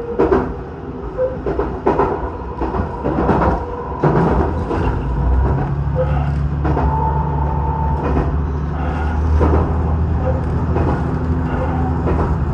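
Diesel train in motion: wheels knocking over rail joints about once a second, then from about four seconds in a steady low engine drone comes up and holds.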